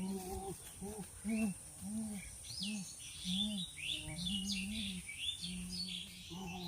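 Birds chirping and twittering in quick, rising and falling notes, over a row of short, low, voice-like sounds repeated about once or twice a second.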